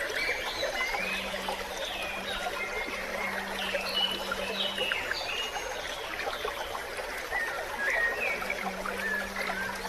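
Small creek running and trickling steadily, with short bird chirps scattered over it. A low steady hum comes in about a second in, stops about halfway through, and returns near the end.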